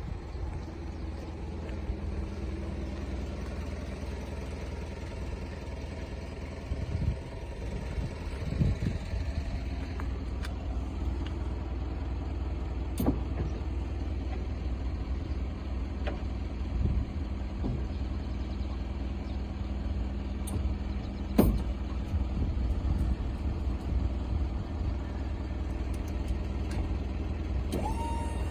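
Isuzu Elf light truck's engine idling steadily, with a few sharp clicks.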